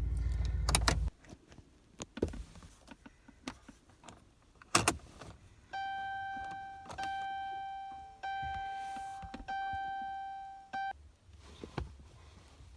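Dodge Ram 1500 cab: a low hum cuts off about a second in and a sharp click of the ignition key follows a few seconds later. Then the dashboard warning chime sounds four times, about a second and a quarter apart, each chime fading away.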